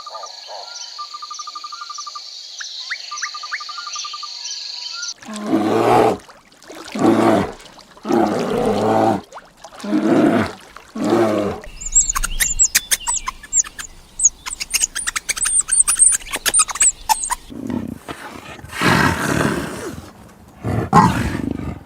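Recorded animal calls played one after another. First comes faint high trilling, then a series of five long, deep calls about a second apart, then fast high-pitched bird chirping, and near the end two more loud calls.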